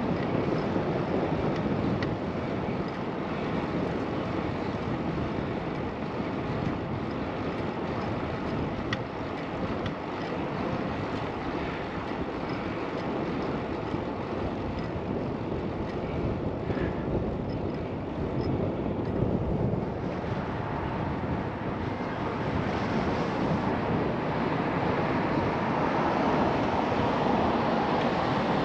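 Steady wind rush over a GoPro's microphone, mixed with road noise from riding a bicycle.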